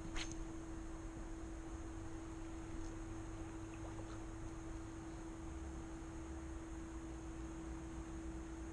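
A steady, unchanging hum on one pitch with a fainter high whine above it, over a low rumble, and a single sharp click just after the start.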